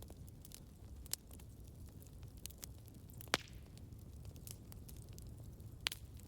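Campfire burning: a steady low rumble of flames under irregular crackles and pops, with three louder snaps about a second in, midway and near the end.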